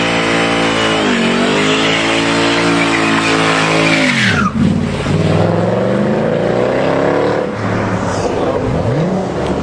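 Mercedes-AMG engine revving hard and held at high revs for about four seconds with tyres squealing, the revs dropping sharply about four and a half seconds in. The engine then revs up and holds again, falls back, and gives a short rev near the end.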